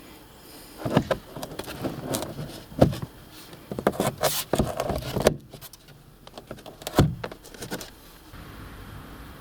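Irregular clicks, knocks and rustling of car interior trim parts and fittings being handled, with the sharpest knocks about a second in, near the middle and about seven seconds in. A steady low hum comes in near the end.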